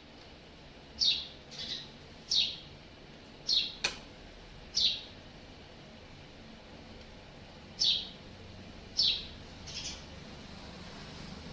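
Bird chirps: short, high calls repeated every second or so, each sliding down in pitch, with a single sharp click about four seconds in.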